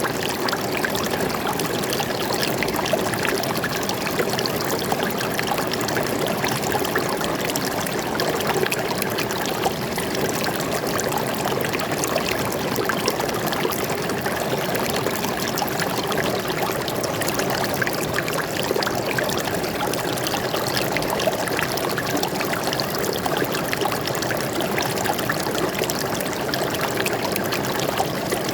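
A forest stream flowing and trickling over rocks, a steady, unbroken splashing rush.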